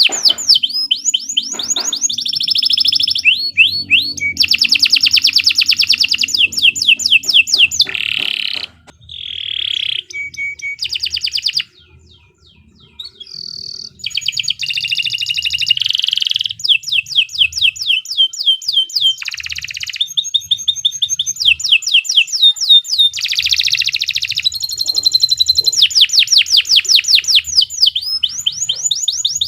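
Domestic canary singing long, fast rolling trills of rapidly repeated high notes, phrase after phrase, with a short pause near the middle.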